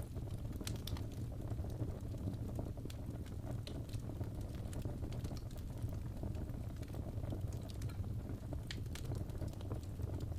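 Wood fire burning in a fireplace: a steady low rush of flame with irregular sharp crackles and pops.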